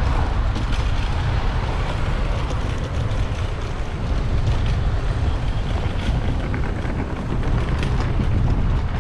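Wind rumbling steadily on a bicycle-mounted action camera's microphone while riding, with street traffic noise under it.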